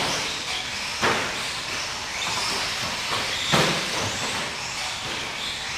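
Radio-controlled short course trucks racing on a dirt track, heard as a steady hissing noise of motors and tyres, with two sudden knocks about a second in and about three and a half seconds in.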